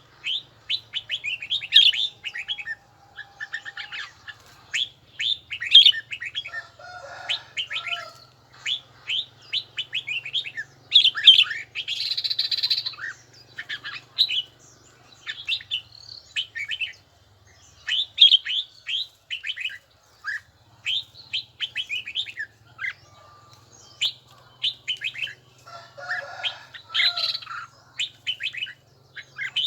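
Red-whiskered bulbul singing: a rapid, continuing run of short, sharp, high notes.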